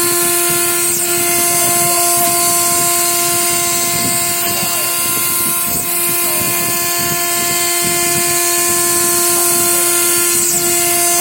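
A machine running at a steady speed: a constant high whine over an even hiss, with no change in pitch.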